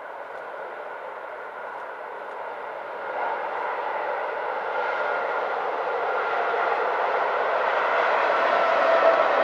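Electric-hauled passenger train running over the rails: a steady rumble of wheels on track with a faint steady hum in it, growing gradually louder as the train comes nearer.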